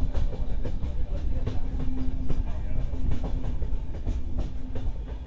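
Yeswantpur–Karwar Express passenger train running along the track: a steady low rumble with irregular clicks and knocks from the wheels passing over rail joints.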